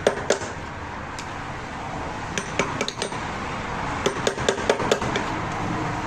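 Sharp metallic taps and clinks of metal tools striking metal engine parts, coming in quick runs of four or five a few seconds apart, over a steady hiss.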